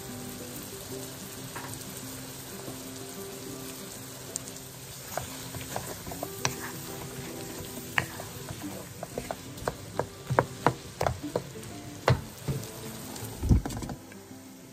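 Taro-leaf stems sizzling as they fry in oil in a wok, stirred with a utensil that clicks and scrapes against the pan many times in the second half, ending with a low knock.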